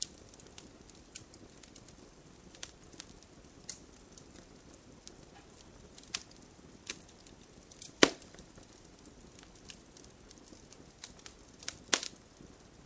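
Bonfire crackling: irregular sharp pops and snaps of burning wood, one louder pop about eight seconds in and another near the end, over a faint steady patter of rain.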